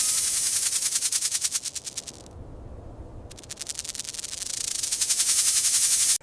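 Rattlesnake shaking its tail rattle: a fast, dry, high buzzing rattle that breaks off about two seconds in and starts again about a second later.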